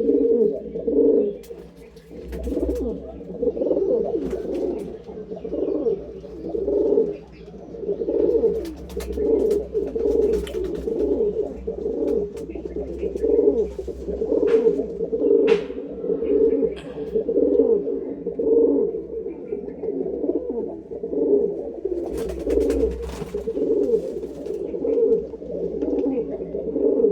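Pigeons cooing continuously, several birds' calls overlapping, with a few brief sharp clicks now and then.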